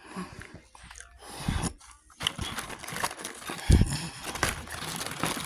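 Close-up eating sounds: chewing food, with crackly rustling and a couple of low thumps about a second and a half and nearly four seconds in.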